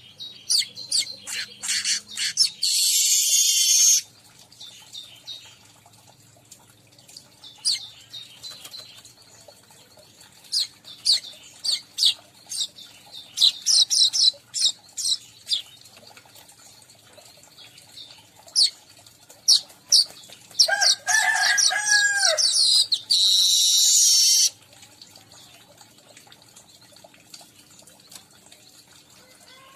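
Weaverbird (manyar) calls: series of short, high chirps, with two spells of dense, buzzy chatter lasting about one and a half to two seconds, one near the start and one near the end. Just before the second spell come a few lower, falling notes.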